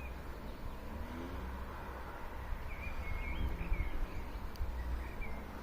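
A few short bird chirps over a steady low outdoor rumble.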